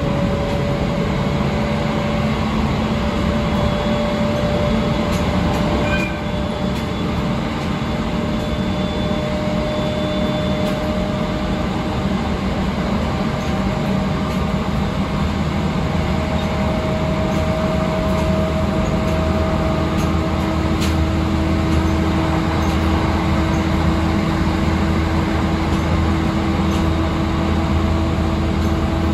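A JR East 701 series electric train running, heard from inside the passenger car: a steady rumble of wheels on the rails with a faint motor whine that slowly rises in pitch.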